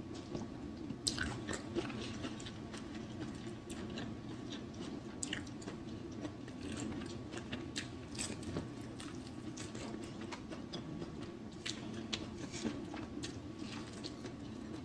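Close-miked eating: biting and chewing with wet mouth sounds and many small irregular clicks.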